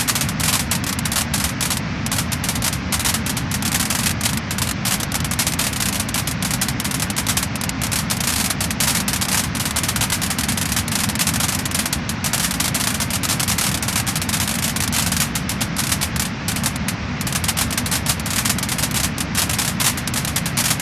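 Wood fire in a fireplace crackling and popping, with many small pops every second over a steady low rush.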